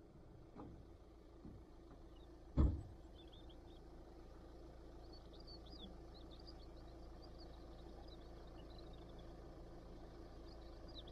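Faint birds chirping in short high calls over a low steady hum, with a single thump about two and a half seconds in.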